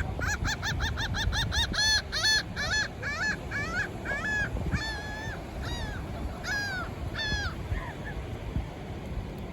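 Laughing gull giving its long call: a quick run of nasal notes, about six a second, that slows and stretches into longer, drawn-out notes before stopping near the end.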